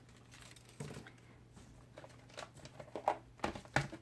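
Light taps, clicks and paper rustles of cardstock pieces being handled and pressed onto a card, with a few sharper taps about a second in and near the end.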